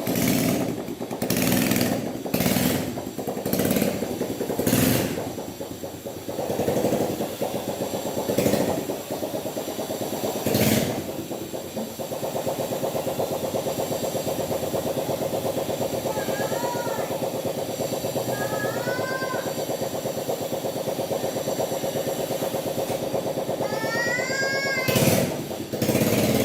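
Small motorcycle engine on a homemade go-kart running. It gives short loud surges about once a second for the first ten seconds, then runs steadily with a fast, even pulse.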